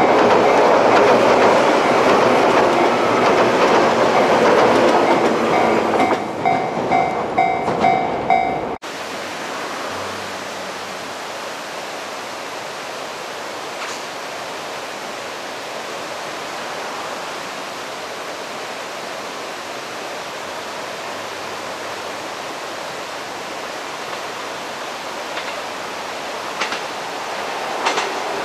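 Niigata-colour 115 series electric train running past close by: loud wheel and rail noise with a high whine over it, breaking into clattering toward the end and cutting off abruptly about nine seconds in. Then a much quieter steady outdoor hush, until a second train's wheel clatter grows near the end as it approaches.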